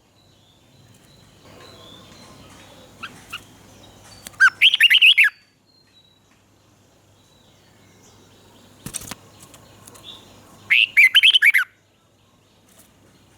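Red-whiskered bulbul singing: two short, loud phrases of quick warbling notes, about six seconds apart, with a few faint chirps before the first. A single sharp knock sounds between the phrases.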